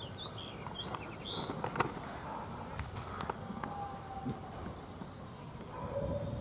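Birds chirping, a few short calls in the first second and a half, over open-air background noise, with a few sharp clicks about two seconds in.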